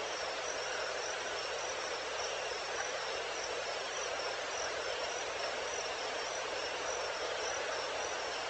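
Crickets chirping in a steady, regular high-pitched pulse over a constant hiss of insect and night ambience.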